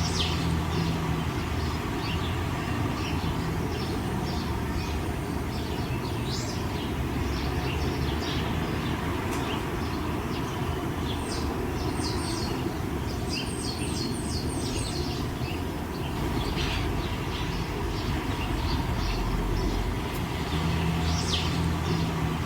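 Small birds chirping in short, scattered calls, a few in quick runs, over a steady low rumble.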